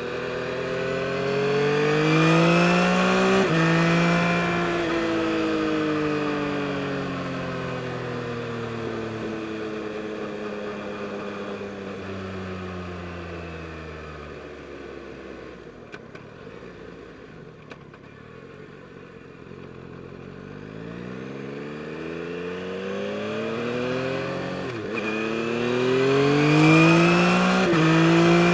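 2022 Yamaha MT-09 SP's 890 cc three-cylinder engine accelerating with an upshift about three seconds in, then revs falling slowly as it rolls off, down to a quiet low point past the middle. It then pulls hard again, with two quick upshifts near the end.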